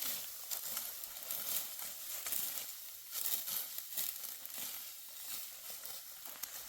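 Dry wheat stalks crackling and rustling as they are cut by hand with a sickle, in irregular strokes.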